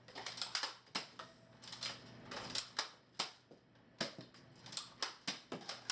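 A run of sharp, irregular clicks and clacks, several a second, like hard plastic pieces being handled and snapping.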